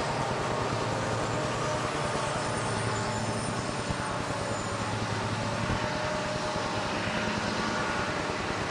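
Diesel locomotive engines running, a steady drone with a low hum.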